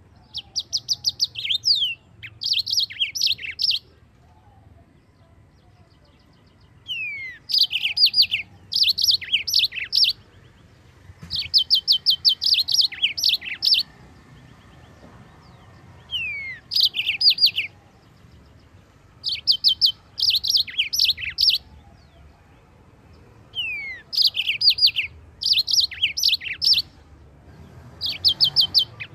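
Yellow-fronted canary (mozambik) singing: phrases of one to three seconds made of rapid, high, trilled notes, some beginning with a falling whistle. The phrases repeat with short pauses between them, with the longest pause about four seconds in.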